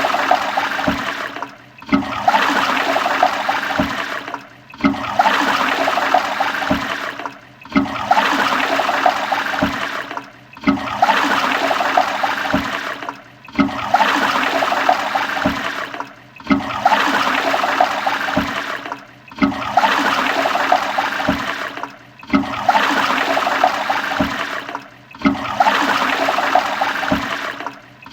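Toilet flushing: rushing, gurgling water that repeats about every three seconds, each flush starting loud and tailing off, with a short near-silent gap between.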